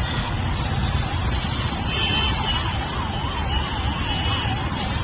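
An emergency vehicle's siren warbling quickly up and down, about three sweeps a second, over a steady low rumble of jammed traffic.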